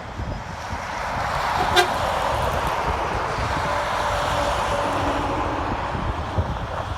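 Convoy trucks passing by, a swell of engine and tyre noise building and then easing, with a horn tooting faintly in the middle.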